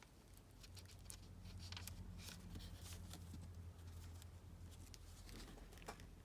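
Faint handling of washi tape and paper on a journal page: a few soft ticks and rustles over a low steady hum.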